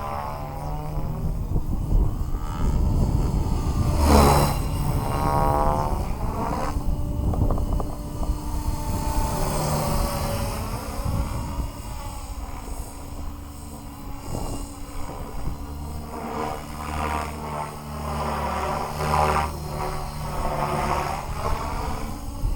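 Align T-Rex 550X electric radio-controlled helicopter in flight, its rotor blades and motor running steadily, the sound swelling and fading as it moves about, with a brief loud swoosh about four seconds in.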